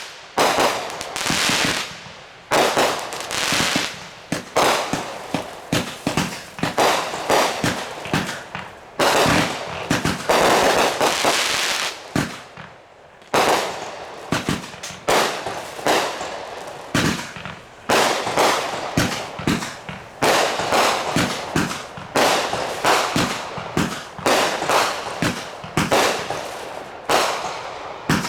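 Consumer fireworks going off one after another: sharp bangs about every second or two, each trailing off in a noisy fizzle. A denser, continuous stretch comes a little before the middle.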